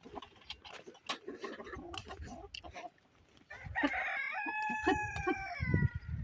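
A rooster crowing once, starting about three and a half seconds in: one long call that drops in pitch at the end. Before it come scattered clicks and knocks, and low thumps fall near the end.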